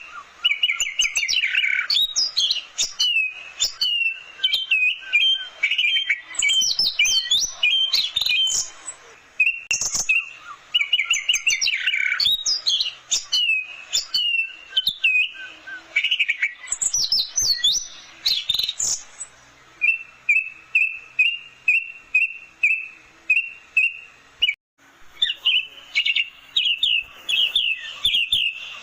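Orange-headed thrush singing a loud, varied song of quick whistled phrases. In the second half these turn into runs of rapid repeated notes.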